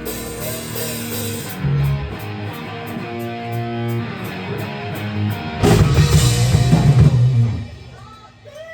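Live rock band playing electric guitars and drums without vocals, with a steady cymbal beat. A louder, fuller passage comes in a little past halfway and lasts about two seconds, then the sound drops off sharply near the end.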